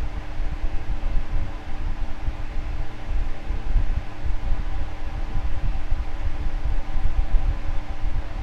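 Fan running steadily: a constant hum over a low, fluttering rumble of moving air.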